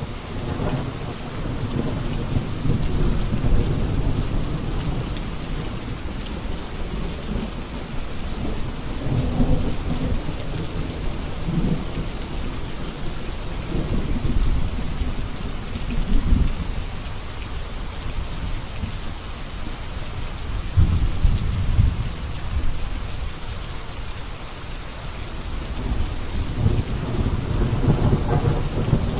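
Steady rain with low thunder rumbling in several long swells that rise and fade over it.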